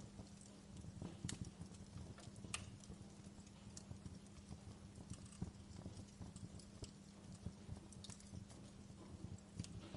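Wood fire burning in a fireplace, crackling softly with irregular sharp pops, over a faint steady low hum.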